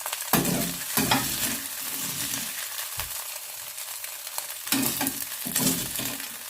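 Cubed chicken breast sizzling in hot oil in a pan on high heat, with a utensil scraping and knocking in the pan several times as the browned pieces are moved.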